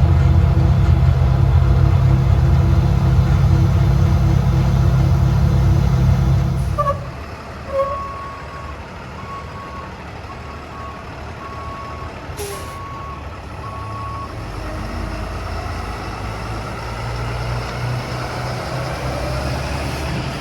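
Mack MD's Cummins B6.7 turbo diesel engine running loudly, then cutting off sharply about seven seconds in. A string of about eight evenly spaced beeps and a short hiss follow, then a low engine rumble returns for the rest.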